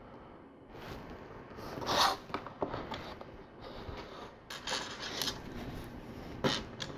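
Hands handling LEGO pieces and a paper sticker sheet: rustling and scraping in irregular bursts, with a sharp plastic click near the end.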